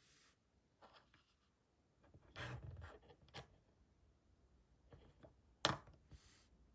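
Faint, scattered scratching and rubbing, like writing or small objects being handled, with one sharp click about five and a half seconds in.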